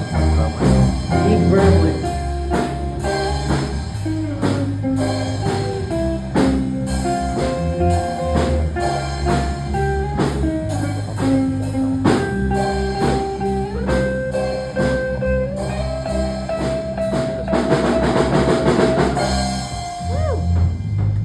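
Live band playing an instrumental passage: a drum kit keeps a steady beat under a melodic lead line of held, stepping notes over bass, with a cymbal swell near the end.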